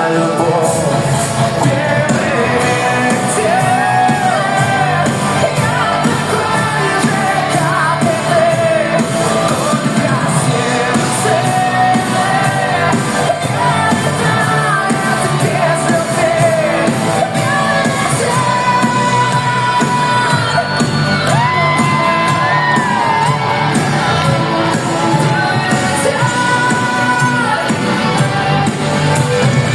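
Live pop ballad: a male voice sings long held notes over full band backing.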